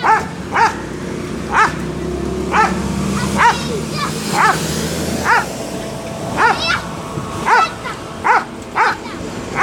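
Dog barking repeatedly: short, high-pitched barks, about one a second, some coming in quick pairs.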